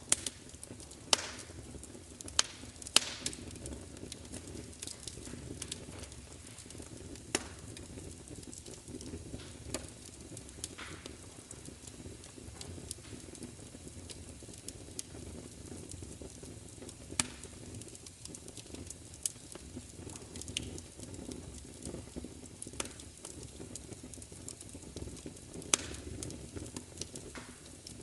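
Wood fire crackling: irregular sharp pops and snaps, a few louder ones in the first few seconds and one near the end, over a steady low rush of burning.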